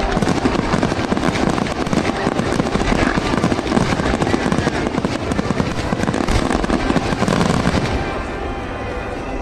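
Fireworks going off in a dense, rapid barrage of bangs and crackling that eases off about eight seconds in.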